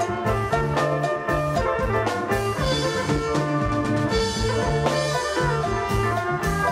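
Live band music with a steady drum beat, a moving bass line and a sustained melody, played over the troupe's PA system during a sound check.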